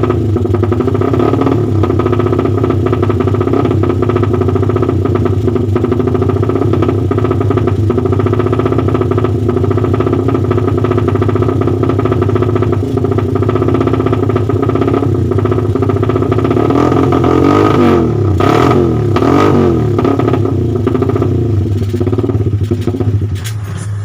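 Motorcycle running loud through an aftermarket race-only exhaust with a 22 cm silencer, 50 mm inlet and 60 mm outlet, idling fast and steady, then revved up and down a few times about three quarters of the way through.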